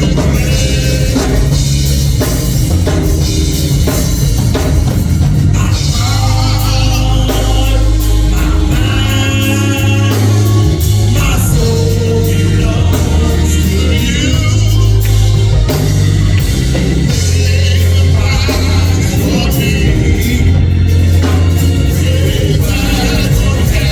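Gospel praise band playing, with bass, drums and singing over it.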